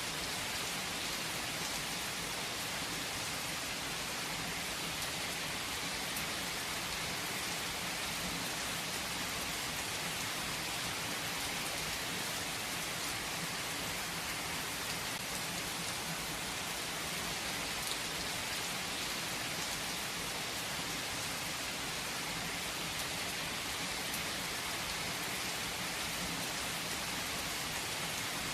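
Steady rain falling, an even hiss with no break or change in level.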